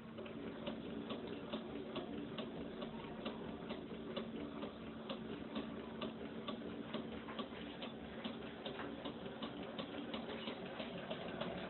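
Small Stirling engine running, its moving parts making a quick, even ticking over a faint steady hum.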